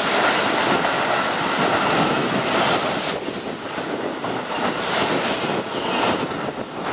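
Keihan 3000-series limited express train running through a station at speed without stopping: a steady rush of wheel-on-rail and air noise with clattering wheels, swelling twice and easing off near the end as the last car passes.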